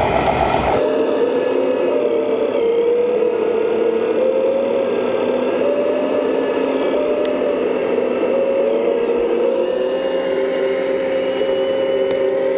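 Whine of the electric motor and hydraulic pump of a 1/14 scale RC construction machine, holding a steady pitch that shifts slightly up and down as the load changes. It starts about a second in, when a louder rumbling noise cuts off.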